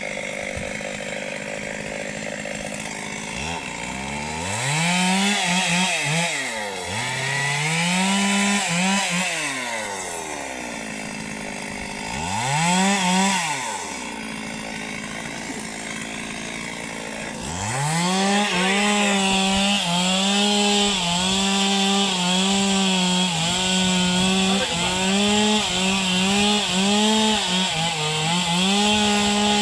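Chainsaw idling, then revved up and back down three times in short bursts. From about two-thirds of the way through it is held at high revs, the pitch dipping and wavering as it cuts into the tree.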